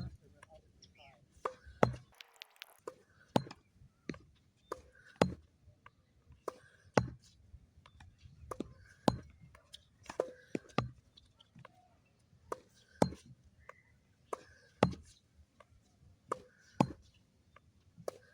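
Tennis balls struck by rackets in a rally: a sharp pop about every two seconds, with softer ball bounces between the hits.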